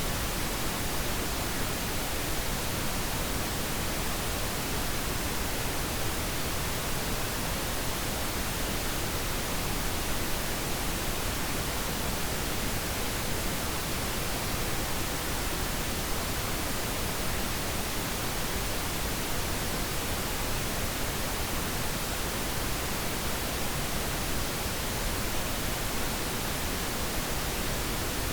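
Steady pink noise: an even, unchanging hiss across the whole range of pitch, played as a sleep aid.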